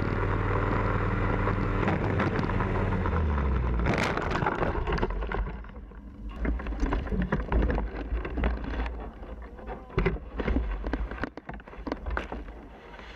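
Steady engine drone with several held tones, heard inside a vehicle, changing about four seconds in to a lower rumble with many irregular knocks and rattles.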